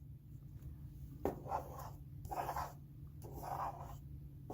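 The scratch-off coating of a lottery scratch-off ticket being scraped away. There are three short scraping strokes: about a second in, about two and a half seconds in, and about three and a half seconds in.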